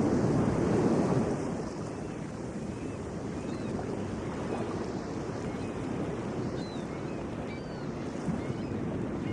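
Atlantic Ocean surf washing onto a beach: a wave is louder for the first second and a half, then the wash settles to a lower, steady hiss. Wind noise on the microphone is mixed in.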